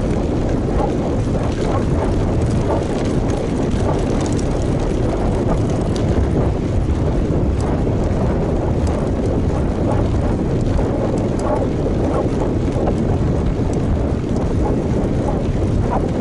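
Steady rush of wind on an action camera's microphone, mixed with tyre and road noise from a road bike riding along.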